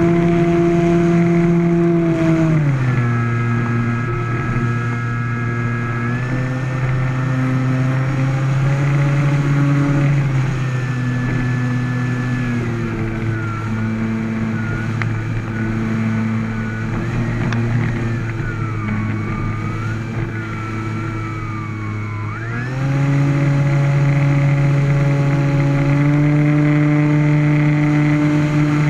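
Electric motor and propeller of a radio-controlled Carbon Z Cub model plane running steadily, its drone dropping in pitch about two and a half seconds in as the throttle comes back, then rising again near the end as power is added.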